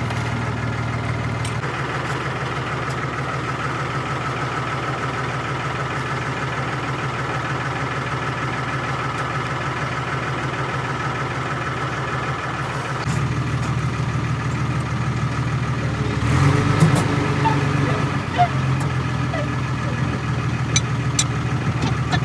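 An engine running steadily. Its note shifts about a second and a half in, and it gets louder about 13 seconds in and again about 16 seconds in. A few sharp clicks sound over it near the end.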